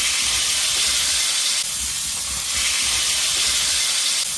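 Frozen tater tots frying in a skillet of leftover burger grease and butter: a steady, loud sizzle.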